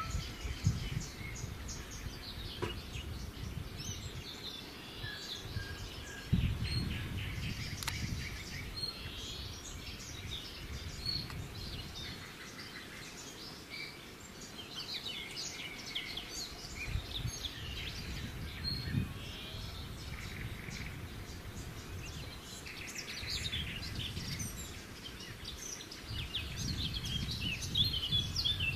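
Small birds chirping on and off throughout, over a low, uneven rumbling background noise.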